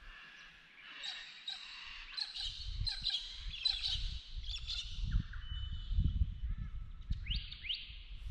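Birds calling: a run of quick repeated notes in the first half, then a couple of short rising whistles near the end. A low, uneven rumbling joins underneath from about two seconds in.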